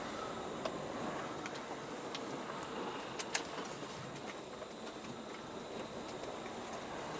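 Steady noise of a running vehicle mixed with wind, with a few sharp clicks, the loudest a little over three seconds in.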